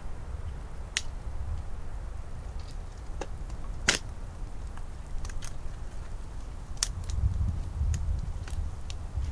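Wood fire crackling: scattered sharp pops and snaps at uneven intervals, the loudest about four seconds in, over a low steady rumble.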